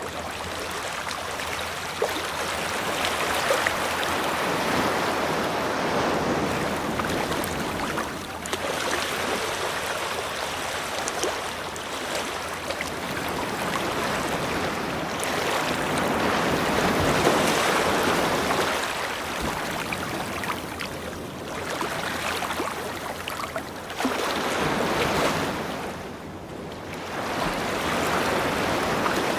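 Ocean surf on a beach: waves breaking and washing up continuously, the rush swelling and easing every few seconds.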